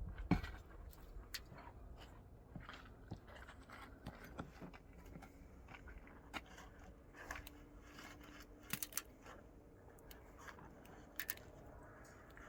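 Scattered light clicks, taps and scrapes of objects being handled, with a few sharper clicks about nine and eleven seconds in.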